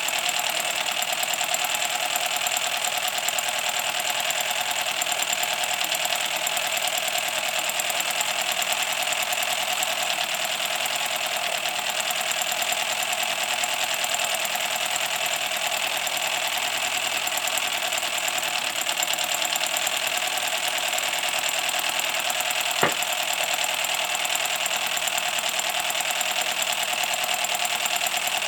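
Kit-built MSS side-tank live-steam locomotive running steadily while being run in for the first time. One sharp click late on.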